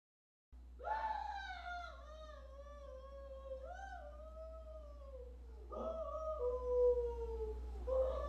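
Dog howling: long, drawn-out howls that slide down in pitch, one long howl followed by two shorter ones, over a low steady hum. It starts about half a second in after dead silence.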